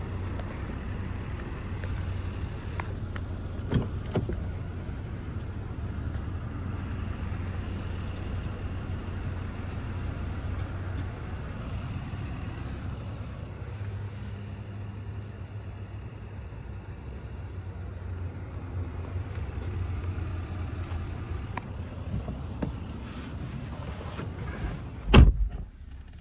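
2021 BMW X6 engine idling with a steady low hum. Two sharp clicks come about four seconds in, and a loud, heavy door thump near the end.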